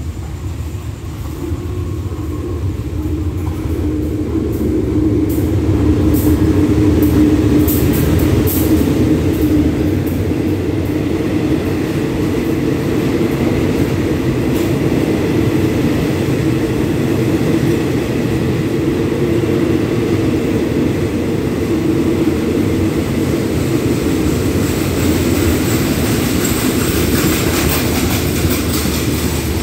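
Diesel-hauled passenger train pulling into a station, a steady rumble that grows louder over the first six seconds as the locomotive nears and passes. The coaches then roll by steadily, with a run of sharp clicks about seven seconds in.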